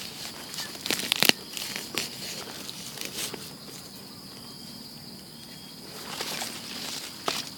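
Dry leaves and twigs rustling and crackling under footsteps and hands in forest litter. A cluster of sharp snaps comes about a second in and more crackling near the end, over a faint steady high hum.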